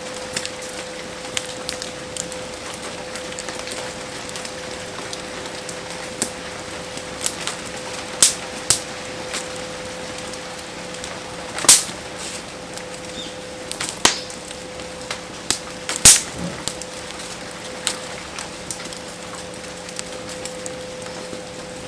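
Wood campfire crackling with irregular sharp pops, a few of them loud, over the steady hiss of heavy rain. A faint steady hum runs underneath.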